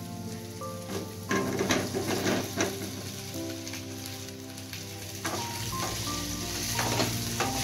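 Boiled potatoes dropped into hot mustard oil and frying onions in a kadai: the oil sizzles up strongly about a second in, with several knocks as the potatoes land and are pushed around. Background music plays along.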